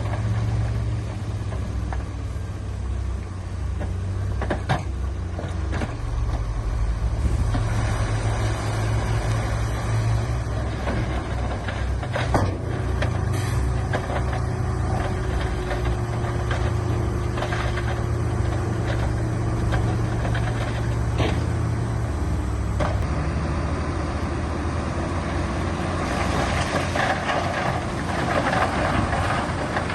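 Heavy diesel earth-moving machinery running under load, a deep steady engine sound with a few sharp knocks and clanks scattered through it, and a rougher, rattling stretch near the end.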